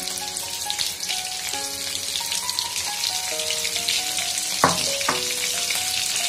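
Chopped green chillies and cumin seeds sizzling and crackling in hot oil in a kadhai, with two sharp clicks a little past the middle. Background music plays underneath.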